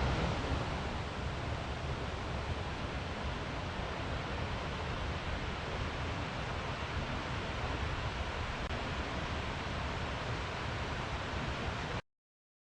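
Steady, even rushing noise with no distinct events, cutting off abruptly about twelve seconds in.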